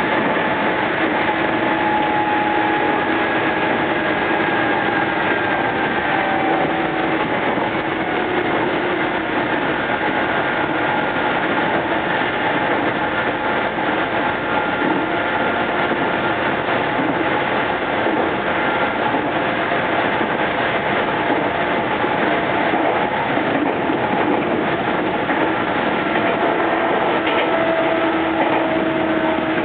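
Meitetsu 5300 series electric train running at speed: a steady rumble of wheels and running gear, with faint traction-motor whine tones that drift slowly in pitch.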